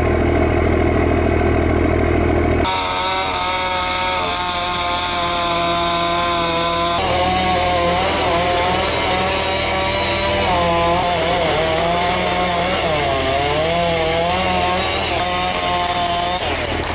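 A low, steady engine drone for the first few seconds, then a chainsaw running while cutting wood, its engine pitch wavering up and down as the load on the chain changes.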